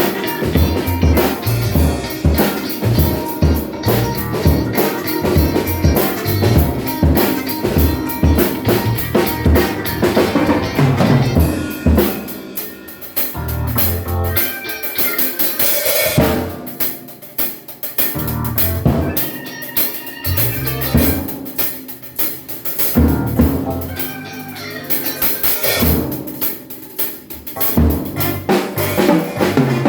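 ADW Astro 5 drum kit being played: a steady groove of bass drum, snare and rimshots, thinning out for a few quieter, sparser passages in the middle before picking up again.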